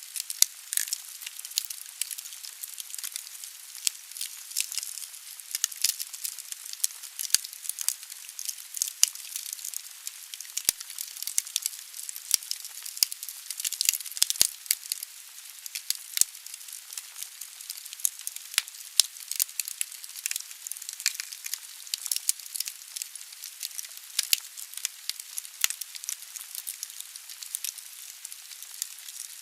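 Wood fire burning in a fireplace: a steady hiss with irregular sharp crackles and pops from the burning logs.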